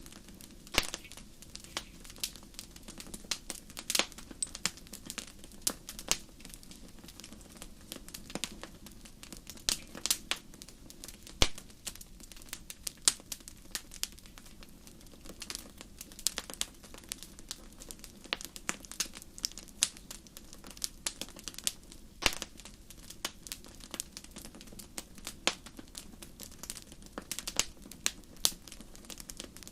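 Wood fire crackling in a fireplace: irregular sharp pops and snaps, several a second, over a soft steady background, with the loudest snap about eleven seconds in.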